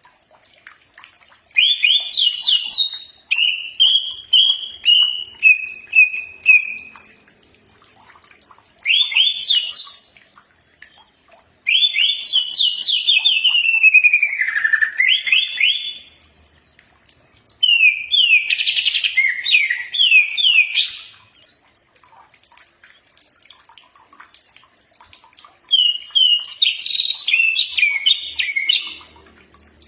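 Cucak ijo (green leafbird) singing: about six loud phrases of quick, sweeping whistled notes and trills, each a second to a few seconds long, separated by short pauses; one phrase runs down in a string of falling notes.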